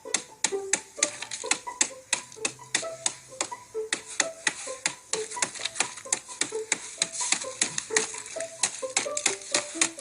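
Ice-glazed twigs and branches clicking and tinkling together after freezing rain: rapid, irregular sharp ticks, several a second, with short ringing notes at varying pitches.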